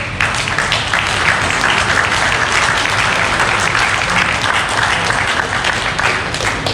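Crowd applauding: many hands clapping together in a steady burst of applause for an award winner.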